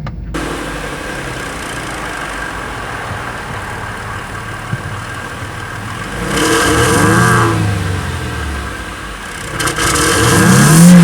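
2012 Jaguar XF's exhaust idling, then revved twice: one rise and fall in engine note about six seconds in, and a longer, louder rev near the end.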